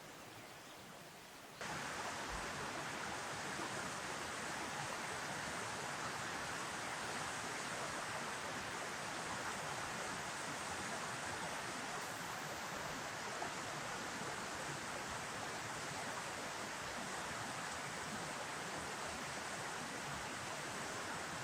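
Steady rush of flowing river water, starting abruptly about a second and a half in and running on evenly.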